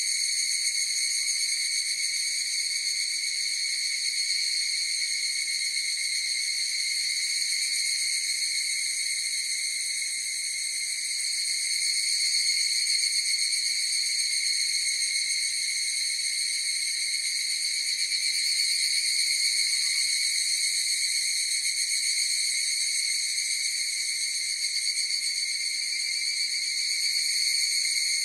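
Chorus of higurashi (evening cicadas) calling: a steady, high, ringing drone that swells and eases gently in loudness.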